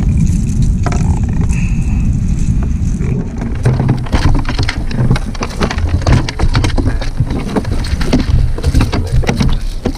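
Steady low wind rumble on the microphone. From about three and a half seconds in comes a busy run of irregular knocks and rattles, handling noise in a kayak as a channel catfish is brought in.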